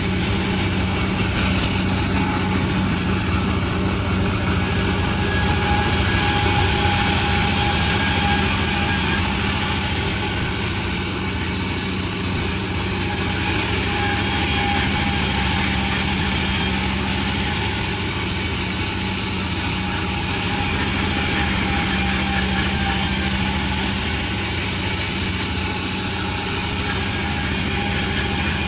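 Sawmill running steadily: a continuous engine-like drone with a faint whine that comes and goes, swelling slightly in loudness now and then.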